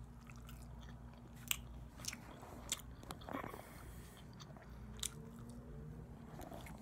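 A person biting into and chewing barbecued chicken close to the microphone, with a few sharp clicks of the bite over a low steady hum.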